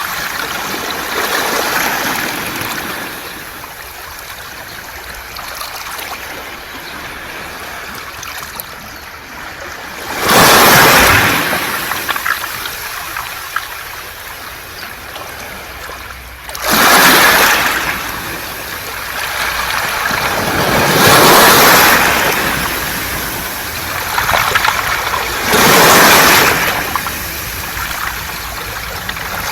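Sea waves washing over a beach of smooth round pebbles, with the water and stones hissing as each wave runs up and drains back. Four louder waves surge in during the second half, a few seconds apart, over a softer steady wash.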